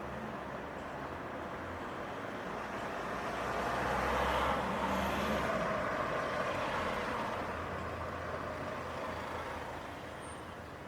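A motor vehicle drives past on a city street: its engine hum and tyre noise swell to a peak about four seconds in, then fade away.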